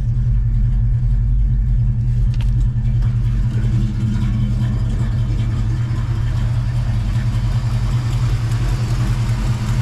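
Dodge Dart's engine idling steadily on a cold start, an even low rumble.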